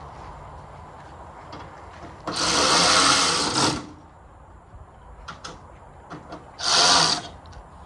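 A handheld power tool running in two bursts, a longer one of about a second and a half and then a short one of about half a second.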